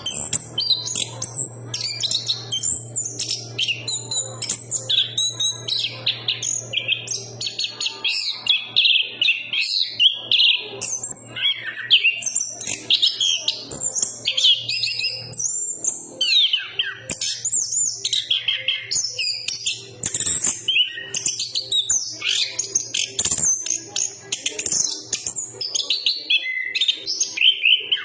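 Chestnut-capped thrush (anis kembang) singing a long, unbroken run of rapid, varied high phrases.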